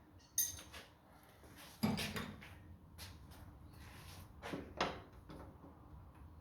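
A few separate knocks and clatters, the loudest a heavy thump about two seconds in, with lighter knocks near the start, about three seconds in, and twice more around four and a half seconds.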